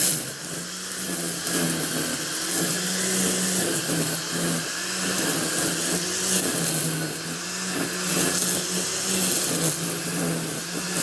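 A small engine running steadily, its pitch dipping and recovering a little now and then, as under changing load.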